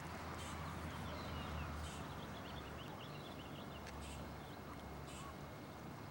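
Outdoor ambience: small birds chirping in the background over a steady low hum, with soft hissing puffs about once a second.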